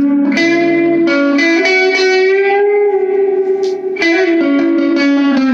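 Two-pickup electric guitar through a small all-tube amp, gain turned up and tone knob back up, played with a bright, twangy edge. Strummed chords ring out, with one chord held for a couple of seconds before a fresh strum about four seconds in.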